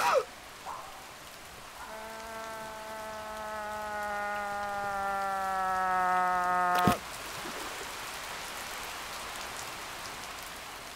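A long held tone slides slowly down in pitch and grows louder for about five seconds, then breaks off in a sudden impact about seven seconds in. After it comes steady rain falling and splashing on water.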